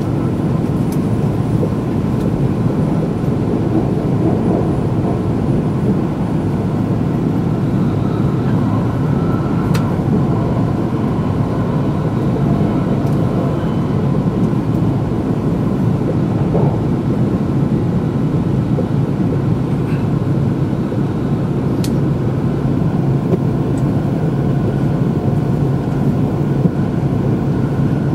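Steady running noise of a Nagano Shinkansen train heard from inside the passenger cabin: an even low rumble with a couple of faint ticks.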